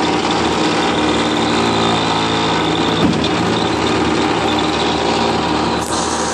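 Construction machinery engine running steadily.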